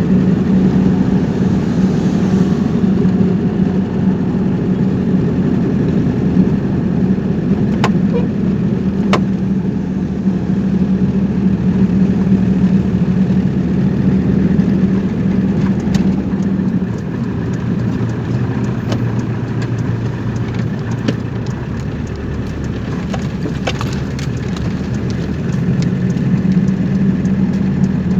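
Car engine and road noise heard while driving, a steady hum whose pitch drops lower for several seconds past the middle and then rises back, with a few sharp clicks.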